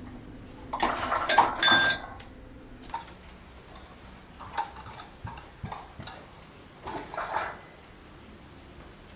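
Dishes and cookware being handled: a loud clatter with metallic ringing about a second in, then a few lighter clinks and knocks.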